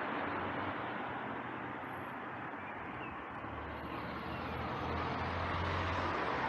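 Steady road traffic noise, with a vehicle engine's low hum rising about halfway through.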